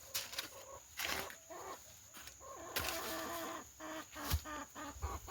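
Chickens clucking in a run of short repeated notes, with a few sharp knocks in between.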